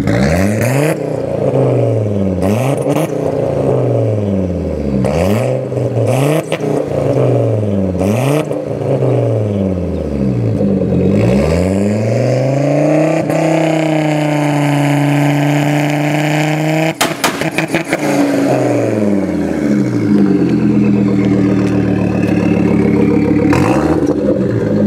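Turbocharged Honda K24 four-cylinder, swapped into a Volvo 850 wagon, revved in quick repeated blips, with sharp exhaust pops as each rev falls. About thirteen seconds in it is held high for a few seconds, then cut off into a rapid burst of pops, followed by a few more revs.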